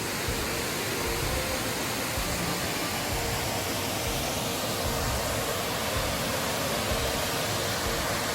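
Waterfall in a mountain stream, water rushing in a steady, fairly loud wash of noise.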